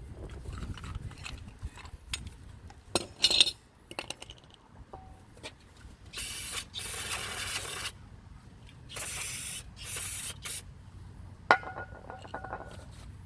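Aerosol brake parts cleaner sprayed in three hissing bursts, the first about two seconds long and the others shorter. Sharp metal clinks and taps come before the spraying and again near the end, one of them ringing briefly.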